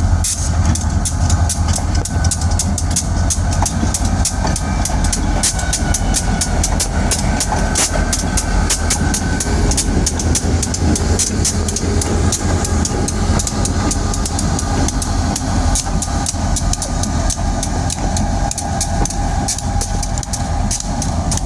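Diesel locomotives running with a steady low engine rumble as they back slowly along the track, with frequent sharp clicks over it.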